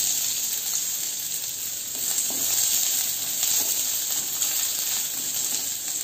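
Chopped onions frying in hot oil in a stainless-steel kadai: a steady sizzle, with a wooden spatula stirring them.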